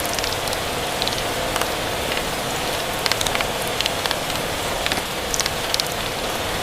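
Steady rain hiss with a wood fire crackling, its sharp pops coming at irregular intervals, several in quick clusters.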